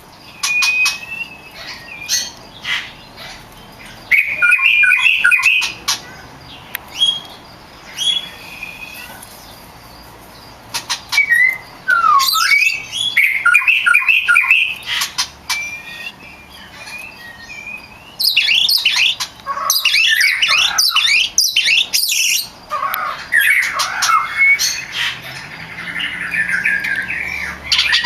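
Oriental magpie-robin (kacer) singing: bursts of varied whistles, gliding notes and harsh chattering calls separated by short pauses, busiest about two-thirds of the way through.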